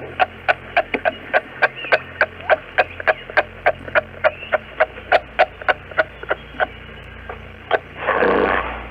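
An animal calling in a fast, even series of short, sharp chirps, about three to four a second, that thin out and stop about two thirds of the way in. Near the end comes a brief, louder rasping burst.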